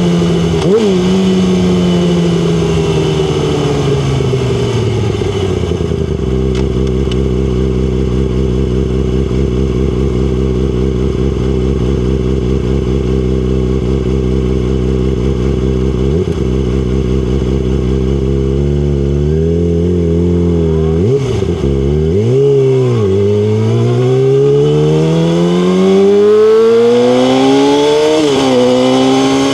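Yamaha R6's inline-four engine slowing down and settling to a steady idle, held for a dozen seconds. It is then blipped a couple of times and revs up as the bike accelerates, with a gear change near the end.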